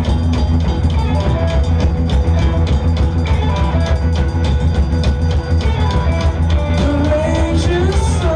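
Live rock band playing an instrumental passage: a drum kit keeps a steady, driving beat under heavy bass guitars and electric guitars. Near the end a wavering melodic line rises over the band.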